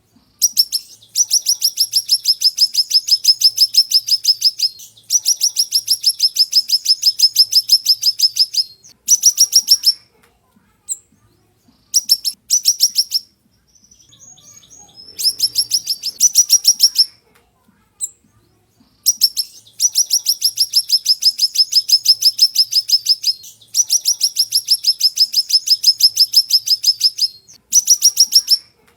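Siri-siri songbird singing long, rapid trills of sharp, high-pitched repeated notes, several lasting three to four seconds with shorter bursts between, separated by brief pauses.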